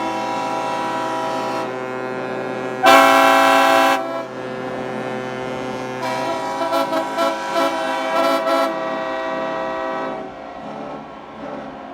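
Several superyacht horns sounding at once in overlapping long blasts. One loud blast comes about three seconds in, and a run of short toots follows in the middle. The horns thin out near the end.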